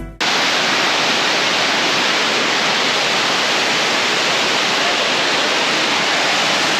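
Kothapalli waterfall rushing: a steady, dense roar of falling water that cuts in abruptly and holds even.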